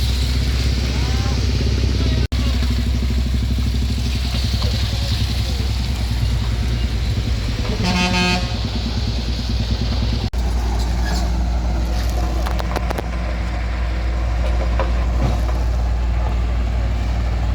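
Engines of vehicles on the road running with a steady low rumble, with one short horn toot about eight seconds in.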